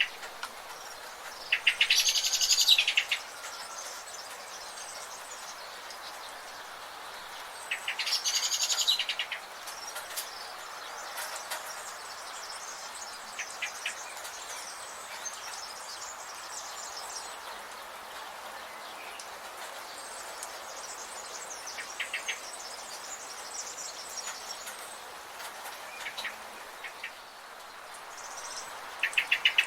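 Wild birds singing and calling over a steady high background hiss. Two loud, fast, high song phrases come about 2 and 8 seconds in, with short quick runs of chirps scattered between.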